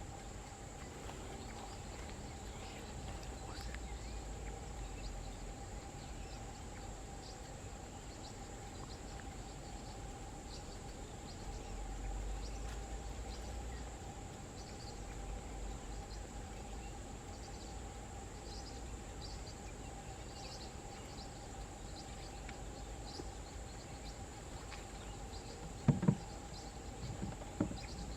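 Outdoor field ambience: insects droning steadily at two fixed pitches, with scattered short high chirps and a low wind rumble. A few sharp knocks come near the end.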